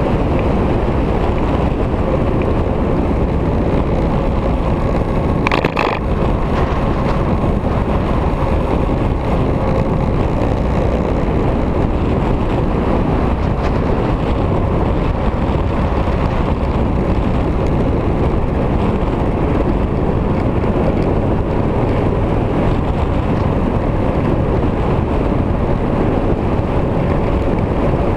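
Victory motorcycle running at a steady speed, its engine hum buried under heavy wind rushing over the microphone. A short sharp sound about six seconds in.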